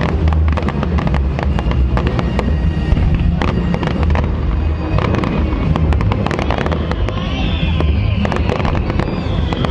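Fireworks going off: a rapid string of sharp bangs and crackles over a steady low rumble, with a whistle falling in pitch from about seven seconds in.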